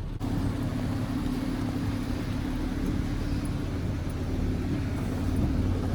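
Heavy rain on a car, heard from inside the cabin, over the steady low hum of the idling engine.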